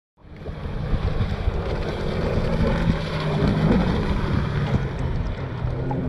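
Wind rumbling on the camera microphone out on open water, with water sloshing against the kayak.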